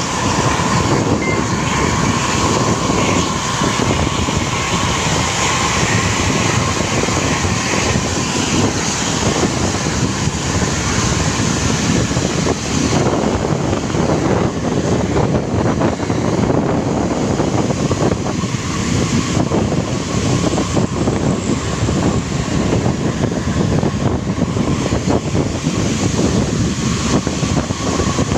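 Sumber Jaya Trans SJ60 intercity bus running hard at speed, a loud steady engine and road rumble with a faint whine that fades out about halfway through.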